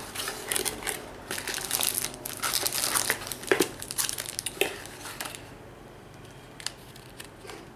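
Packaging crinkling and rustling as accessories are handled out of a CPU water block's box, with a few sharp clicks; it settles to quieter handling about two-thirds of the way through.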